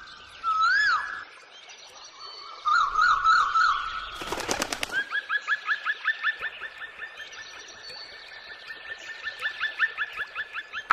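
Birdsong: whistled calls that rise and fall and a short trill, then a brief loud flutter about four seconds in, followed by a long run of quick rising notes at about four a second.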